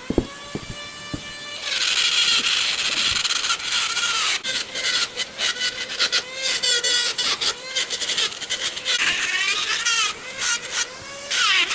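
Electric tool working wood, with a high squealing whine that wavers in pitch and breaks off and restarts many times over a rough grinding noise.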